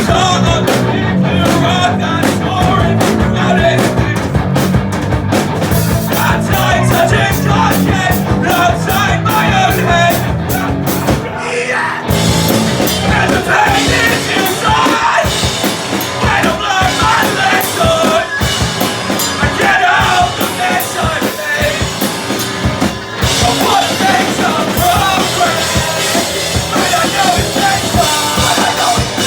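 A rock band playing live, loud and fast, with distorted guitars, drum kit and shouted vocals; the song gets fuller and brighter about twelve seconds in.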